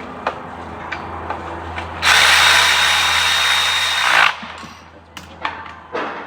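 Power tool run in one burst of about two seconds with a steady high whine, tightening a fastener. Light clicks and knocks of parts being handled come before and after it.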